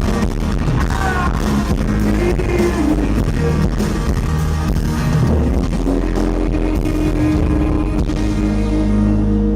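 Live pop-rock band playing loudly with drums and guitar, in an audience recording whose band sound is poor. Near the end the drumming thins out and a held chord rings on.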